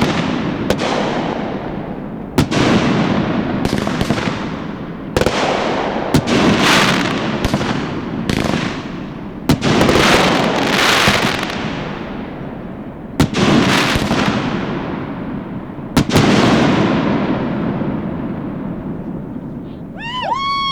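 Aerial fireworks shells bursting in quick irregular succession, about a dozen sharp bangs, each trailing off in a long fading rumble and hiss.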